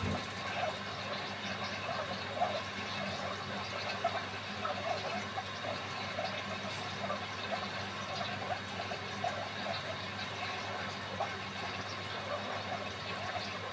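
Beko WMY81283LMB2 front-loading washing machine partway through a hand-wash cycle: water sloshing and splashing irregularly in the drum over a steady motor hum.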